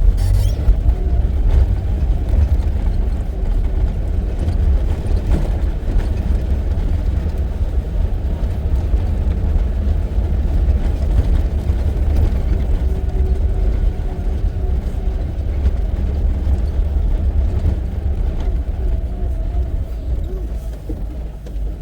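Steady low rumble of a moving vehicle, engine and road noise heard from on board.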